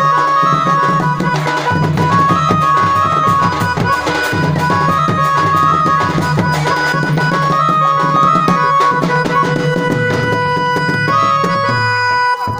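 Band music: a short melodic phrase repeated over and over on a held-note instrument, over busy drumming.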